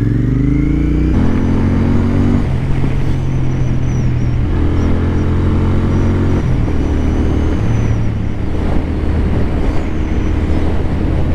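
Royal Enfield Continental GT 650's parallel-twin engine pulling away: its pitch rises for about the first second, drops at a gear change, then runs at a fairly steady speed with a few more shifts. Wind noise rushes over the microphone throughout.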